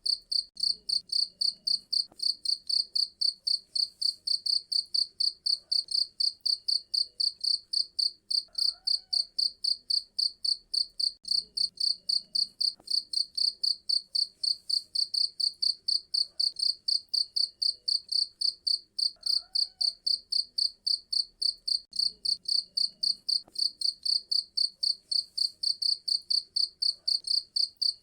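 Cricket chirping in a steady, high-pitched pulse, about four chirps a second, without a break.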